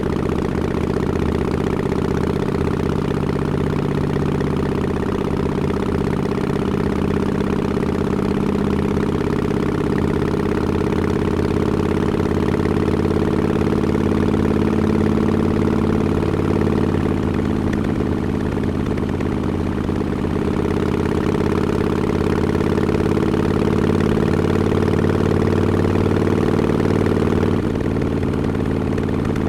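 2017 Harley-Davidson Forty-Eight's air-cooled 1200 cc V-twin running steadily at low revs through Vance & Hines Short Shots exhaust with quiet baffles. There is a brief dip in level near the end.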